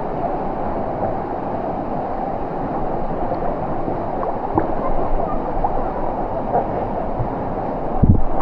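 Waterfall pouring into its plunge pool: a steady rush of falling water, with a short low thump near the end.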